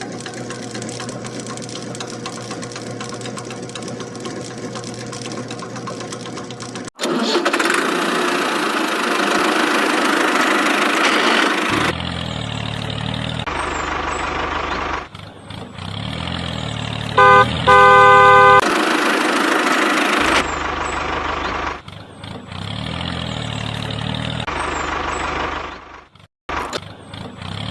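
A small motor running, cut into a series of short segments that start and stop abruptly, with two short horn beeps about two-thirds of the way through.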